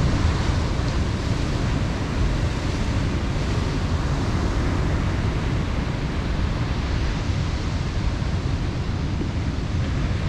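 Ocean surf breaking steadily, with strong wind buffeting the microphone in a constant low rumble.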